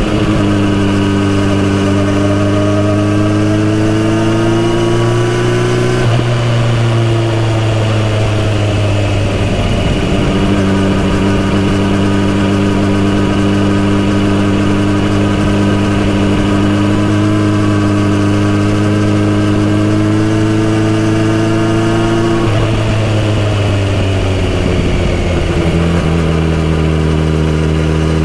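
Kawasaki Z900RS inline-four motorcycle engine with a full exhaust system, heard while riding, its pitch rising and falling with the throttle. It climbs slowly and breaks off about six seconds in, holds steady through the middle, drops around twenty-two seconds in, and settles at a lower pitch near the end.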